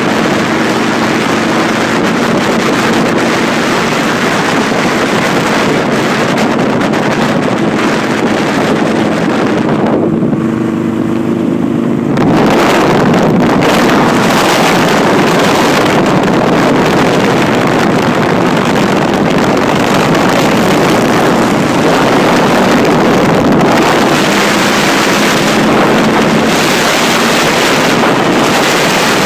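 Motorcycle engine running under way, with heavy wind noise buffeting the microphone. About ten seconds in the rush of noise drops away briefly, then comes back louder about two seconds later.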